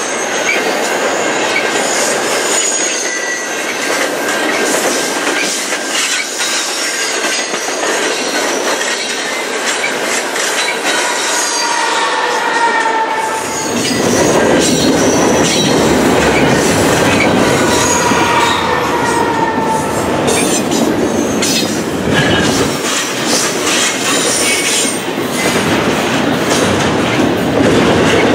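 Canadian National double-stack intermodal train's loaded well cars rolling past at track speed: steel wheels clattering over the rails, with high squealing tones from wheel flanges throughout. About halfway through, the rumble turns heavier and louder.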